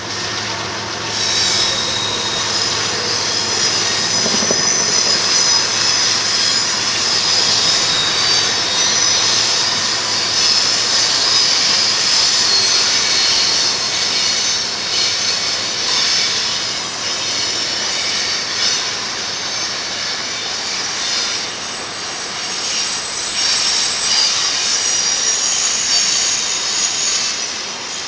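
A BNSF intermodal freight train running through a curve: its diesel locomotives rumble by while steel wheels squeal against the rails, and the high squeal continues as the double-stack cars roll past.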